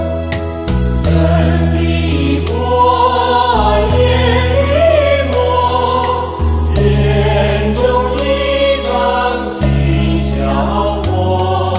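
Buddhist devotional song in praise of Guanyin, sung by a choir over a steady beat and long held bass notes.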